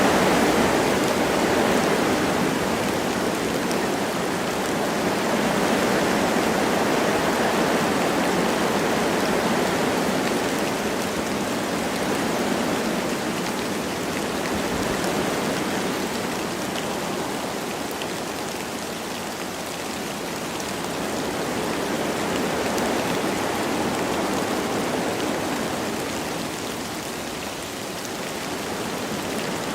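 Wind rushing through forest trees with light rain pattering, the gusts swelling and easing slowly.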